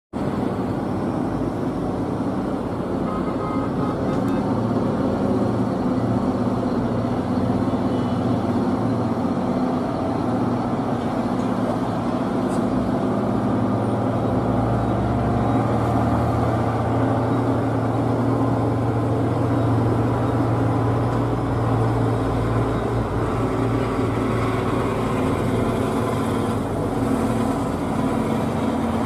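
Old truck's engine running steadily for the whole stretch, a continuous low drone with no breaks.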